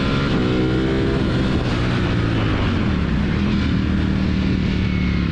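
Ducati Panigale V4's V4 engine running on the road, its note falling off, then rising again about halfway and holding steady before dropping near the end, over a steady rush of wind noise.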